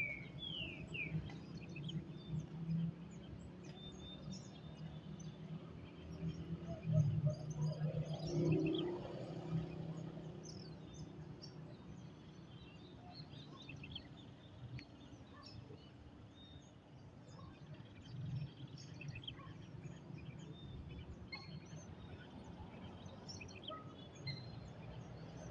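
Outdoor ambience at a lagoon: birds chirping in short calls throughout over a steady low background rumble, which swells louder for a couple of seconds about seven seconds in.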